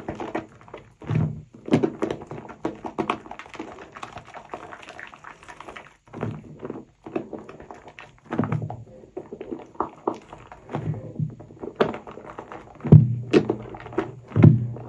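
Wet, soapy sponge being squeezed and worked in thick foam: repeated squelches at an uneven pace, with a softer, steadier stretch of foam noise a few seconds in.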